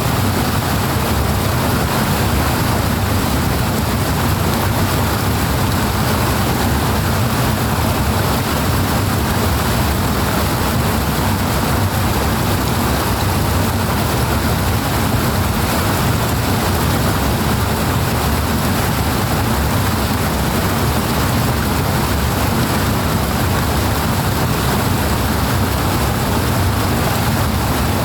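Fast-flowing water in the Riehenteich mill canal, rushing steadily and unbroken, with a deep low rumble under the hiss.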